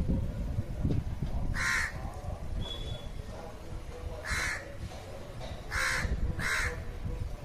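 A crow cawing four times: single short caws about two seconds in and again past four seconds, then two in quick succession near six seconds, over a steady low rumble.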